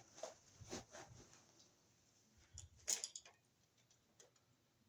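Faint, scattered clicks and light taps from hands working a wall receptacle and its wires in the electrical box, the loudest about three seconds in.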